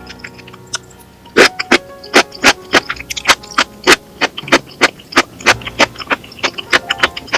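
A quick, regular series of sharp knocks, about three a second, starting about a second and a half in, over soft background music.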